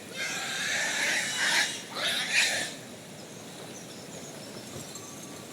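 Pig squealing: a long harsh squeal, then a shorter second one about two seconds in, after which it stops.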